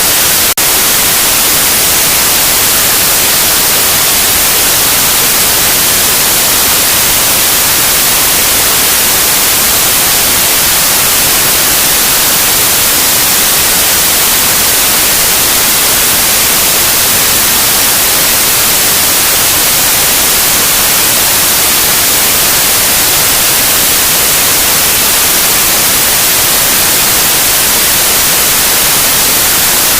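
Loud, steady white noise, an even hiss across the whole range with the most energy in the highs, with one faint click about half a second in.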